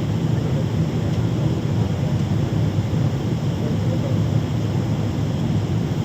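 Steady low rumble of a Boeing 777-300ER heard from inside the cabin: engine and airflow noise with no distinct events.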